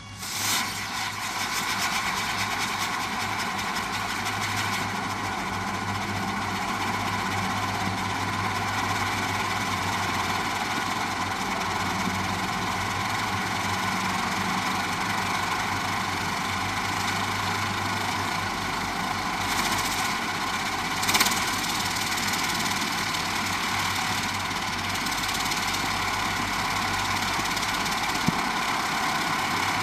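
A ground firework burning with a steady rushing spray that flares up suddenly about half a second in and keeps going without breaks, with two brief brighter surges about two-thirds of the way through.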